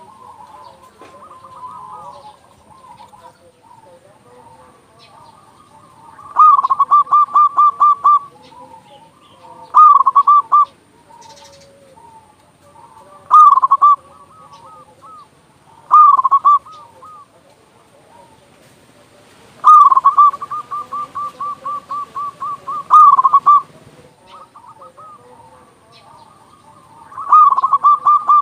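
Zebra dove (perkutut) cooing: loud bursts of rapid, evenly repeated coo notes every few seconds, one long run of notes past the middle, with fainter cooing in between.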